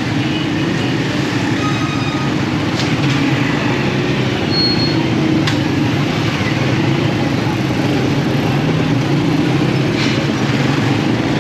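Steady running noise of a motorcycle on the move in traffic, with the hum of surrounding road traffic.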